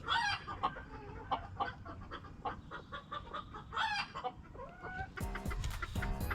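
A backyard chicken flock clucking, with many short calls and a couple of louder calls at the start and about four seconds in.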